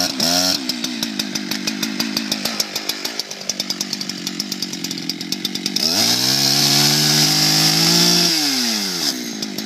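Two-stroke chainsaw engine running at idle, a cold saw that has finally caught after many pulls. About six seconds in it is revved up and held for about two seconds, then drops back to idle.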